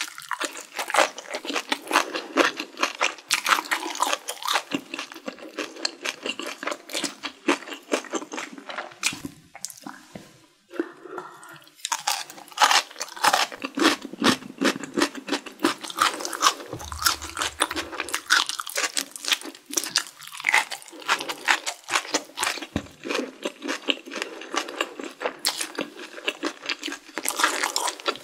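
A person biting and chewing crunchy food, close to the microphone: quick, dense crunches that go on steadily, easing off into a quieter pause about a third of the way in before the crunching picks up again.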